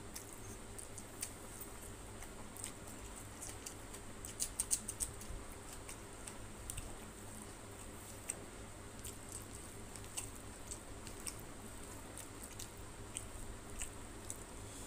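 Close-up eating sounds: mouth chewing and fingers squishing rice and curry, a string of small wet clicks with a quick run of louder ones about four to five seconds in.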